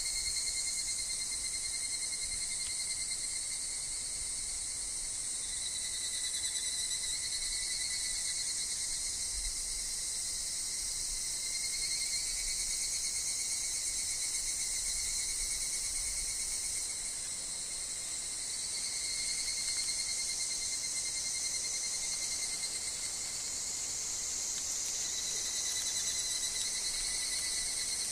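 Higurashi cicadas and other insects singing in a dense, unbroken chorus: a high shrill hiss with a thinner steady tone beneath it.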